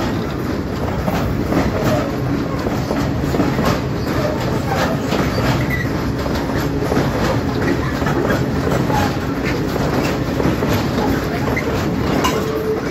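Phosphate freight train rolling past close by. Its wagon wheels clatter steadily over the rail joints, with a few brief wheel squeals now and then.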